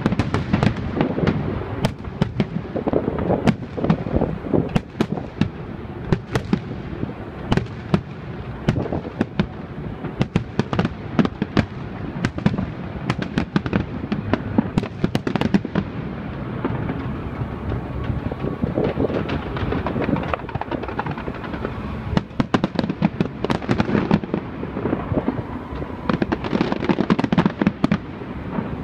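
Aerial fireworks display: a dense barrage of bangs and crackling from many shells bursting close together. It thins a little past the middle and builds again near the end.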